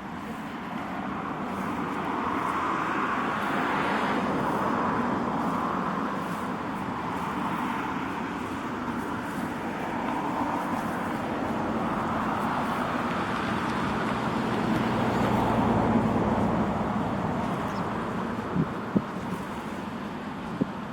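Road traffic: motor vehicles passing by one after another, the noise swelling and fading, loudest with an engine hum about three-quarters of the way through. A few small clicks near the end.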